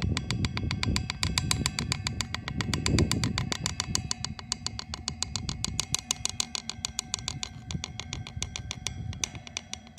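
A drum struck in a fast, even beat of about six strokes a second, each stroke ringing with a metallic overtone. A low rumble runs underneath and swells about three seconds in.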